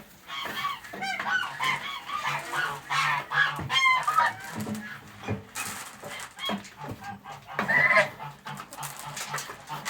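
Domestic poultry calling: hens clucking and geese calling, a dense run of short pitched calls over the first few seconds and another call near the end. A low steady hum and a few knocks lie underneath.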